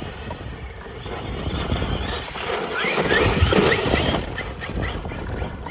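Losi DBXL-E 2.0 electric RC buggy driving, its motor squealing in short rising chirps over a rush of noise that is loudest around the middle.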